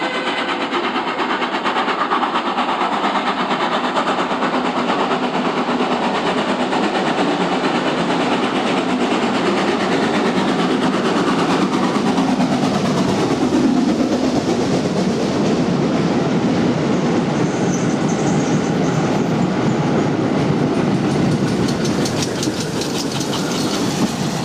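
A train running past close by, with steady wheel-on-rail noise and clickety-clack over the rail joints. A pitch sweeps downward about halfway through as it goes by, and a fast run of wheel clicks comes near the end.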